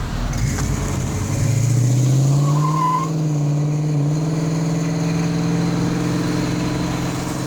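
Car engine running, its pitch rising about a second and a half in and then holding steady.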